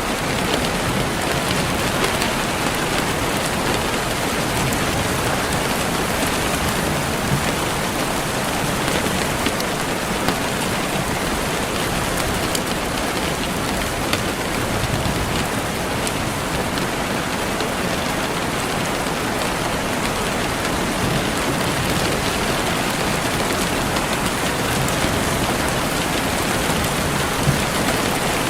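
Steady, heavy rainfall, with a few sharper drop hits standing out here and there.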